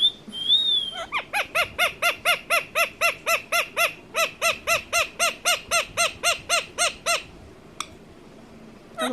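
Indian ringneck parrot (rose-ringed parakeet) gives a short wavering whistle, then a rapid run of repeated calls, about four a second, for some six seconds. A second run starts near the end. The owner takes the run for the bird laughing.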